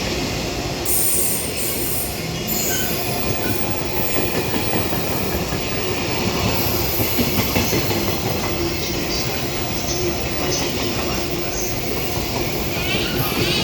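A freight train of Koki container flatcars passing at speed: a steady rumble of steel wheels on rail with clatter over the rail joints. There are brief high-pitched wheel squeals about one to three seconds in.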